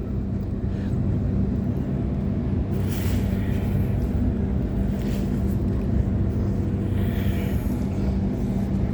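Waratah A-set electric train running between stations, heard from inside the carriage: a steady rumble of wheels on the track with a constant low hum from the traction equipment, and a few faint brief hisses.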